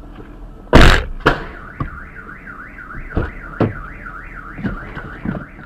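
A loud crash about a second in, with a second bang just after, and then a car alarm going off, its tone warbling up and down about three times a second. Scattered knocks sound under the alarm.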